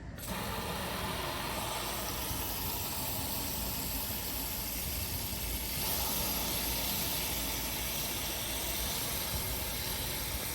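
Water running steadily from a tap to fill a container, a constant rush that shifts slightly in tone a little past halfway.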